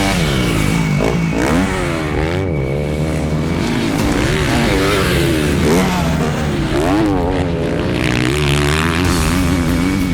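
Husqvarna 250 single-cylinder motorcycle engine revving, its pitch swinging up and down several times as the throttle is opened and closed.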